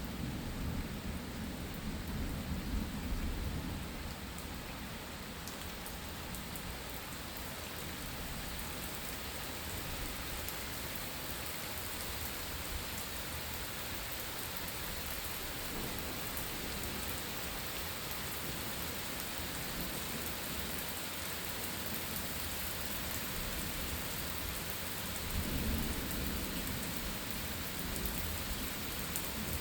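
Steady rain falling, with a low rumble of thunder in the first few seconds and another near the end.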